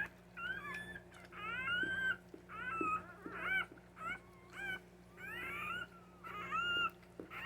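Newborn puppy crying: about nine short, high-pitched squealing cries in a row, each rising then holding, the squeals of a pup just born.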